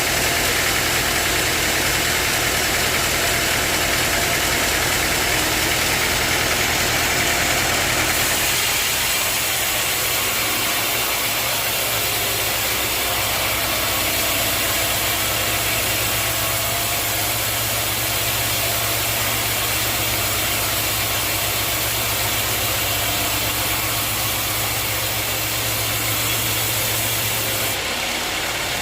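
Sawmill machinery running steadily with a low engine-like hum. About eight seconds in, the higher hiss fades and the low hum goes on.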